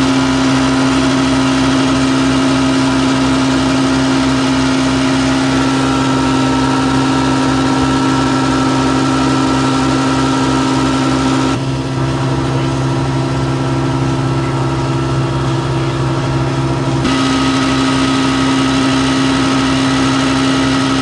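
Massey Ferguson 399's six-cylinder Perkins diesel engine running steadily at constant revs: a loud, even drone with a regular low throb.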